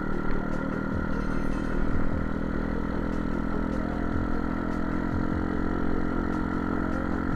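Pit bike engine running at a steady speed, holding an even pitch.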